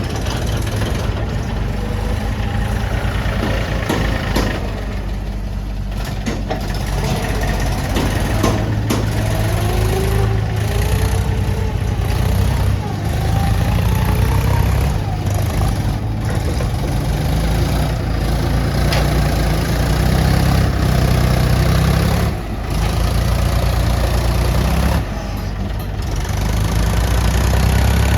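Diesel tractor engine running under load, its note rising and falling as the engine speed changes, with a brief drop about three-quarters of the way through.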